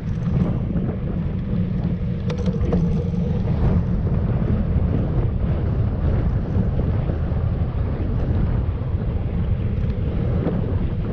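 Wind buffeting the microphone of a camera carried on a moving bike: a steady, loud low rumble with a few faint clicks about two seconds in.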